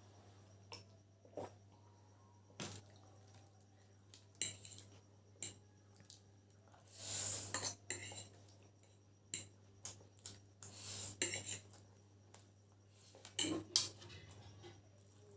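Eating chicken chow mein from a plate: scattered light clinks and taps on the plate, with a few short noisy bursts of mouth sounds from eating the noodles.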